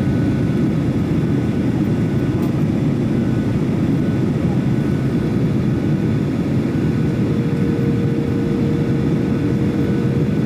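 Airliner engine noise: a steady, loud rumble.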